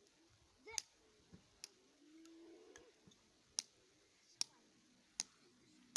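A fire starter being struck over and over, with six sharp clicks a little under a second apart. It is failing to throw much of a spark.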